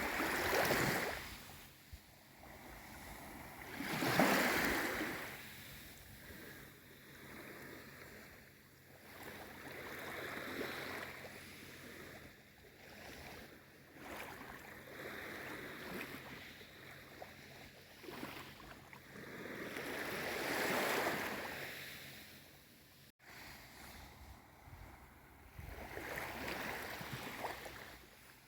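Small waves on a calm sea washing in and ebbing away, each swell of water rising and fading over a few seconds, the largest about four seconds in and again around twenty seconds in.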